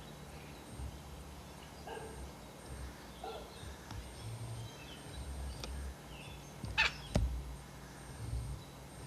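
Pet parrot making a few faint short calls over the low hum of a camcorder, with two sharp clicks about seven seconds in.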